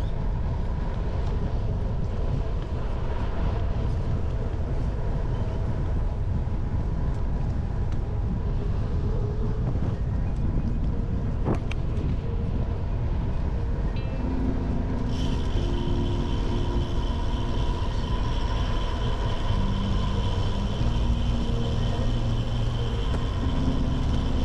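Steady low rumble of a bicycle ridden over a gravel and dirt trail, picked up through a handlebar-mounted camera as tyre noise and frame vibration, with one sharp knock about halfway through. About two-thirds of the way in, a layer of held tones that change pitch every second or so joins the rumble.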